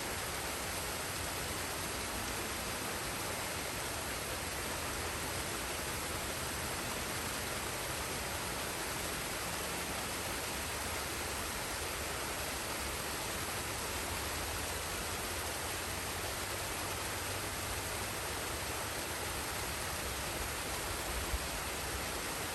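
Forest waterfall and stream running: a steady, even rush of falling water.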